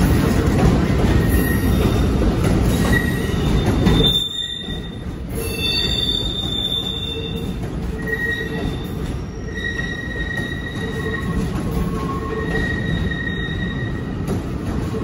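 Amtrak passenger train rolling past, its wheels squealing on the rails in thin high tones that come and go over the rumble of the cars. The rumble drops sharply about four seconds in.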